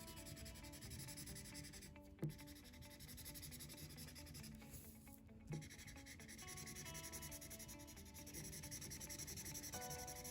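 Felt-tip marker scratching back and forth on paper while colouring in, in quick repeated strokes, with soft background music under it. There are two light knocks, about two seconds in and again at about five and a half seconds.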